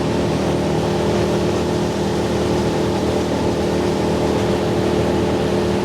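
Motorboat's engine running at a steady cruising speed, its even drone over a constant hiss.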